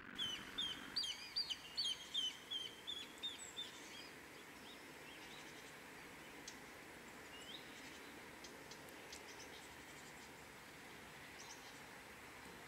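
A songbird singing a quick run of about a dozen short, high repeated notes, roughly three a second, over the first four seconds. Then only faint outdoor background hiss with a few soft clicks.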